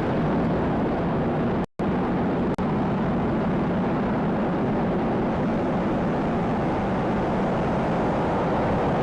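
Falcon 9's nine-engine first stage during ascent: a steady rumbling noise. It cuts out for an instant just under two seconds in, and dips briefly again about half a second later.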